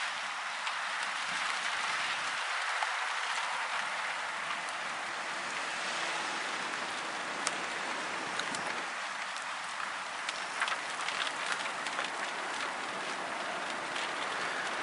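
Steady hiss of heavy rain, with scattered drops ticking close by.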